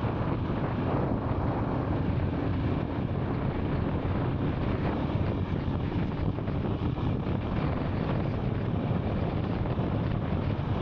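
Royal Enfield Scram 440's single-cylinder engine running steadily on the move, with wind buffeting the microphone.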